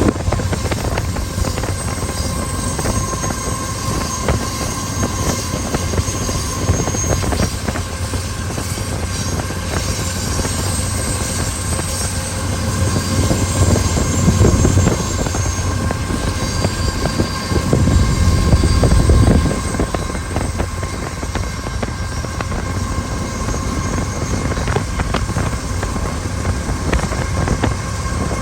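Freight train running past: steady low rumble of diesel locomotive engines with a fast clicking of wheels on the rails, swelling louder twice in the second half.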